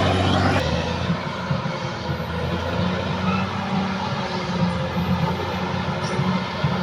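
Caterpillar D6R XL bulldozer's diesel engine running with a steady low hum. About half a second in, the sound changes abruptly and becomes a little quieter.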